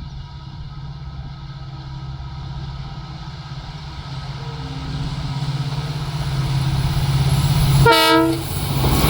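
Indian Railways express train approaching at speed, its low rumble building steadily louder. A short horn blast sounds about eight seconds in as it draws near.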